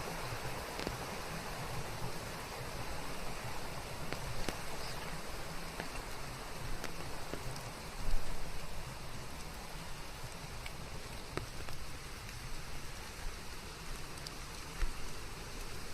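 Steady rain falling on foliage, an even hiss with scattered individual drops ticking throughout. A single low thump about halfway through is the loudest moment.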